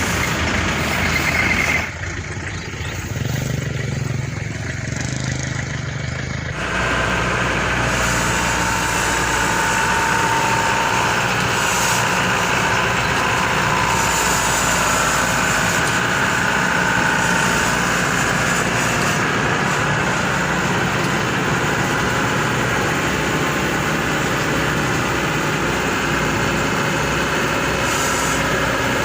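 Maxxi Bimo 102 SS combine harvester's diesel engine running steadily. The sound thins and drops for a few seconds about two seconds in, then comes back fuller and holds steady.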